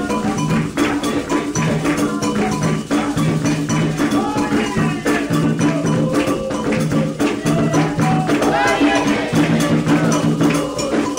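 Candomblé ritual music: atabaque hand drums played in a steady, fast rhythm, with a ringing metal bell and a shaken rattle, and voices singing a chant over them.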